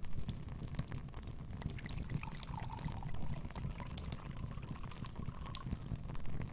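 Wood fire burning in a fireplace: a steady low rumble of flames with scattered sharp crackles and pops. From about two seconds in, a faint thin wavering whistle runs for about three seconds.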